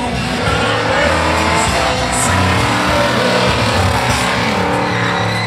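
A car engine revving hard during a burnout, mixed with background music.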